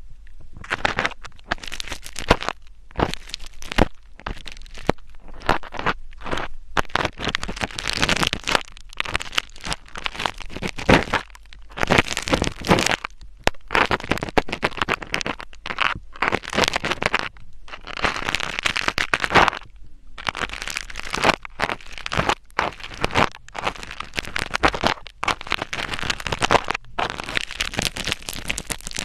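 Close-miked scratching and crackling, coming in irregular bursts with short pauses.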